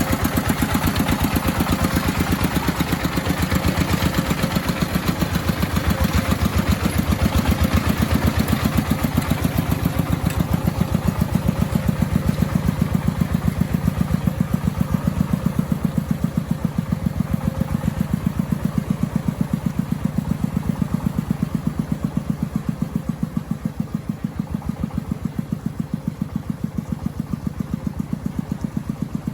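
Agricultural vehicle's engine running steadily with an even, rapid thumping rhythm, getting a little quieter near the end.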